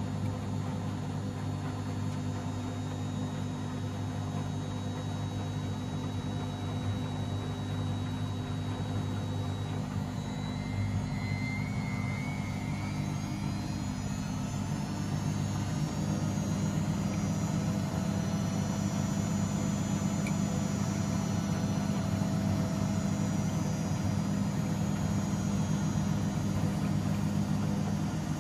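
Washing machine running, its motor giving a steady hum. A faint high whine rises in pitch and the sound grows louder about halfway through as the motor speeds up.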